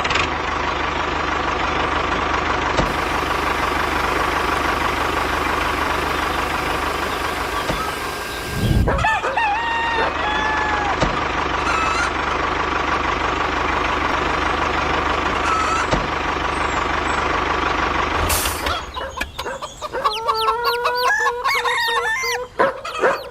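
A small motor runs with a steady, dense whirr and a constant whine. It breaks off briefly about nine seconds in, then stops near the end. After it stops, a rooster crows.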